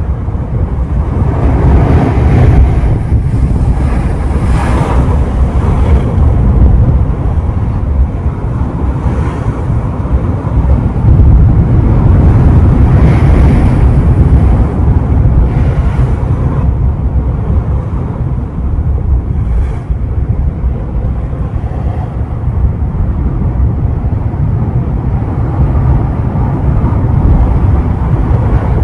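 Ocean surf breaking and washing in several times, under a heavy, steady rumble of wind buffeting the microphone.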